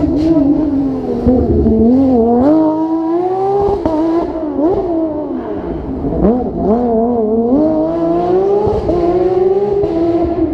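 Porsche 997 GT3's flat-six engine at racing revs, the pitch climbing and dropping several times with sharp dips between as the car is driven hard through a rally stage.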